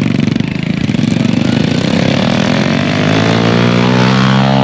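Motorcycle engine running with an uneven pulse, then revving up from about halfway and holding high revs near the end.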